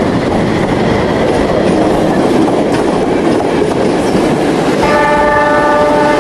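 Train running on rails with a continuous rumbling clatter. About five seconds in, a train horn starts sounding a steady, held chord.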